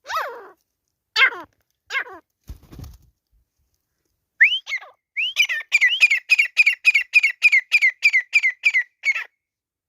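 Grey francolin calling: a few short downward-sliding calls, then from about four and a half seconds a fast run of repeated rising notes, three to four a second, that stops near the end. A soft low thud about two and a half seconds in.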